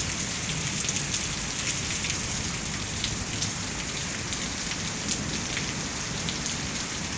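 Heavy rain falling steadily, an even hiss with scattered sharp drip ticks.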